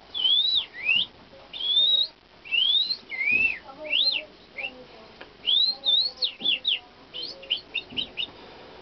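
A person whistling bird-like calls through the lips, shaping the notes with lips and tongue: a run of high, clear swooping glides up and down, then a string of quick short chirps near the end.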